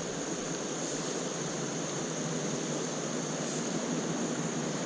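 Steady rush of creek water flowing over rocks, with a steady high-pitched tone running through it.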